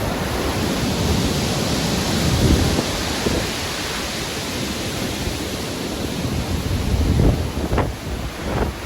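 Stormy ocean waves breaking and surging with wind, a continuous rushing that swells about two and a half seconds in and again about seven seconds in.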